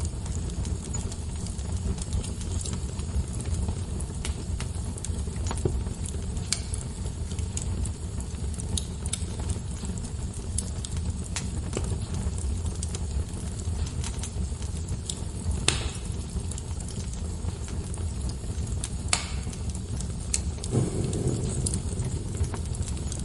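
Wood fire burning: a steady low rumble with scattered sharp crackles and pops every few seconds, and a soft low thud near the end.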